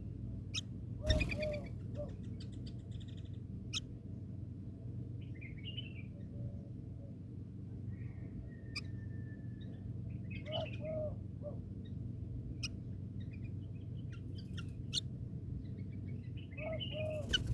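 Scattered short bird chirps and calls, with a few sharp clicks, over a steady low background hum.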